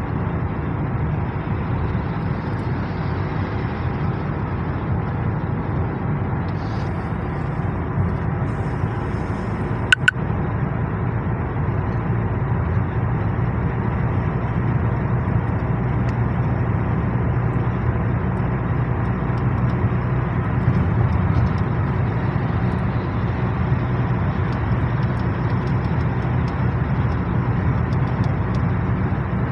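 Car driving at road speed, heard from inside the cabin: a steady low rumble of engine and tyre noise on the mountain road. A single short sharp click comes about ten seconds in.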